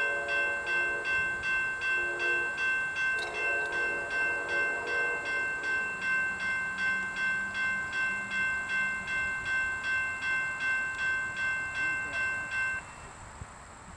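Railway grade-crossing warning bell ringing in quick, even strokes, about three a second. It stops abruptly near the end, as the crossing signal shuts off.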